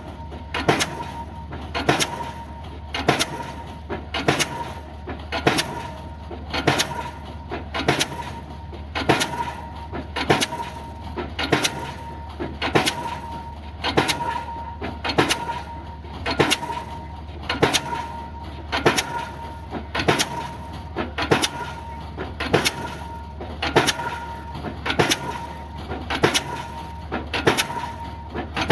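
Diesel pile hammer driving a spun concrete pile, striking about once a second in an even rhythm, each blow followed by smaller knocks. A steady low engine drone runs underneath.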